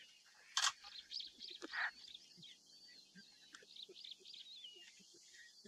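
Wild birds chirping and singing with thin, wavering high calls, and two short louder sounds about half a second and two seconds in.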